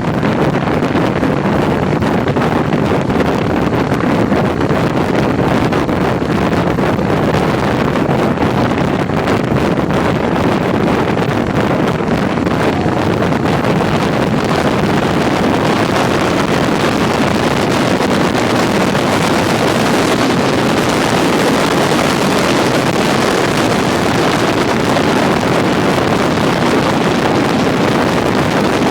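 Steady wind rush buffeting the microphone of a rider at road speed on a motorcycle tour, with vehicle road noise underneath; the hiss grows a little brighter about halfway through.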